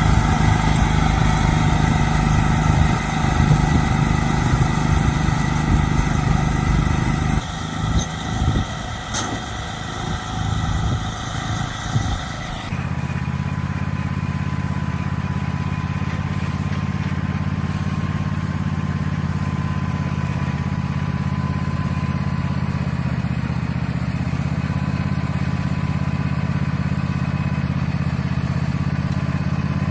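Tractor engine running steadily while working a hay baler. The sound changes abruptly about seven and thirteen seconds in, and after that settles into an even hum with a thin steady whine.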